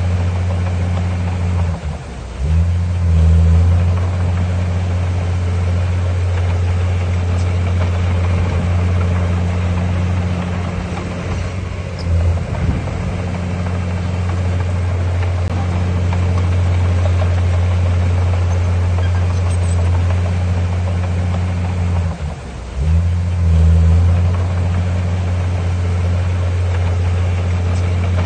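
Heavy diesel engine of earth-moving machinery running steadily under load. It sags briefly and then revs back up about two seconds in, and again near the end.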